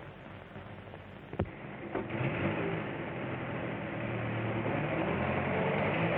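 Old film soundtrack hum with a sharp click, then a train starts running about two seconds in and grows steadily louder.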